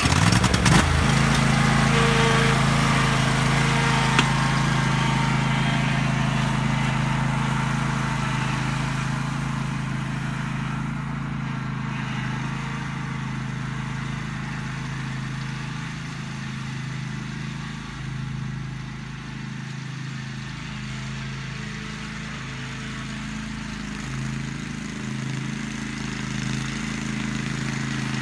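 Riding lawn tractor engine running steadily while it pulls a load of branches, getting quieter through the middle and a little louder near the end.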